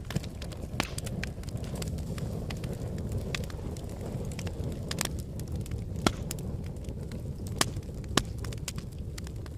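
Wood fire burning in a fireplace: a steady low rumble of flames with irregular sharp crackles and pops, the loudest a little past the middle and again about two seconds later.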